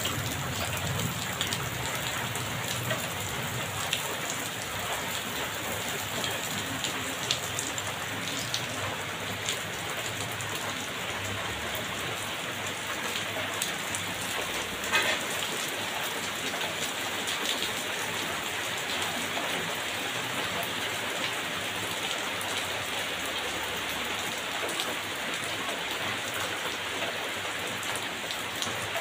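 Heavy rain falling steadily on wet brick paving and leaves, with scattered sharper drop splats and one louder tap about halfway through.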